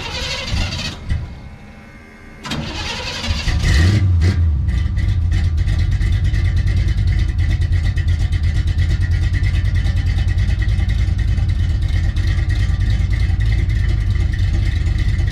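1972 Chevrolet C10 pickup engine cranked over in two tries and catching about four seconds in, then running steadily with a loud, low, even exhaust pulse.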